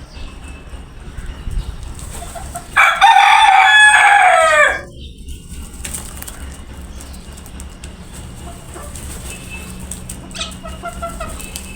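A rooster crowing once, a loud cock-a-doodle-doo about two seconds long that falls in pitch at the end, about three seconds in. Fainter bird calls follow near the end.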